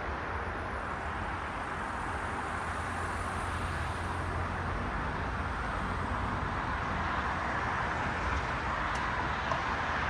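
Road traffic: cars passing, a steady hiss of tyres and engines with a low rumble that swells in the middle. A single small click about nine seconds in.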